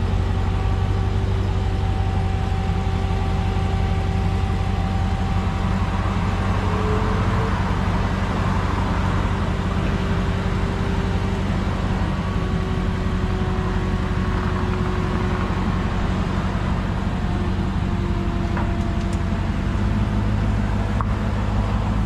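Dodge Challenger Hellcat's supercharged 6.2-litre Hemi V8 running steadily through a mid-muffler-delete exhaust, a deep, even drone at constant loudness. The exhaust has just been repaired to stop a rattle.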